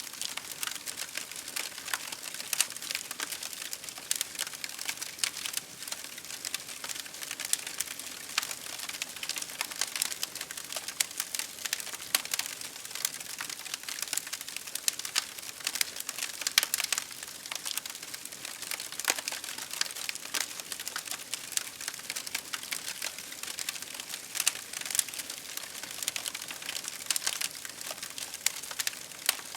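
Wood campfire crackling: a dense, irregular stream of sharp pops and snaps over a steady hiss of rain.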